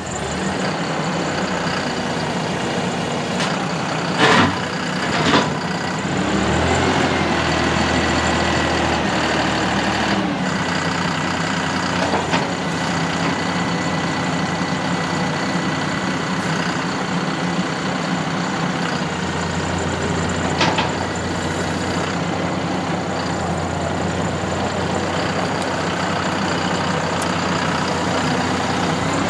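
2021 John Deere 5075E's three-cylinder turbo diesel engine running at idle. The revs rise about six seconds in and drop back about four seconds later, with a few sharp knocks along the way.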